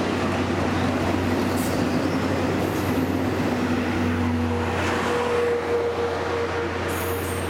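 Train pulling slowly into a station platform: a steady low hum, with a tone that jumps up in pitch about five seconds in and high wheel squeal starting near the end.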